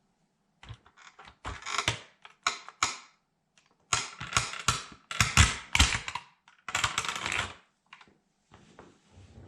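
Plastic toy military truck cracking and crunching under a sandal sole, in irregular clusters of snaps and crackles, loudest in the middle, with brief pauses.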